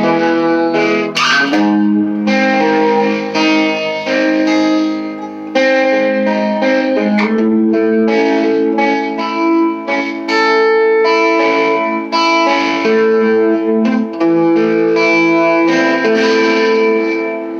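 Electric guitar playing chords through a small all-tube amp set for a little grit rather than a clean sound, with the chords ringing out and changing every second or two.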